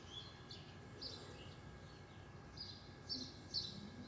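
Small birds chirping faintly: short, high chirps repeated about half a dozen times over a steady outdoor background hiss.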